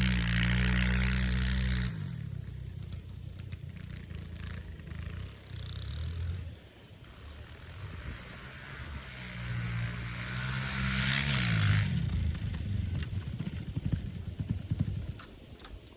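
Kawasaki KLX dirt bike's single-cylinder engine running, then dying about two seconds in. It runs again for a few seconds, its pitch rising and then falling away before it stops, followed by scattered clattering and knocks.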